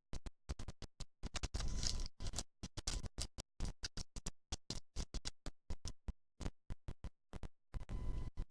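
Badly broken-up recording: a rapid stream of sharp clicks, about four to five a second, with dead gaps between them. Two longer noisy stretches come through about two seconds in and near the end. This is the sound of a faulty recording chopping up whatever is being picked up.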